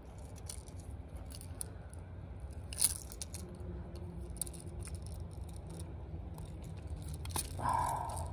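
Small clicks and rattles of fishing tackle being handled, likely the unhooking of a landed striped bass from a jerkbait, over a low steady rumble. One sharp click comes about three seconds in, and a brief higher tone sounds near the end.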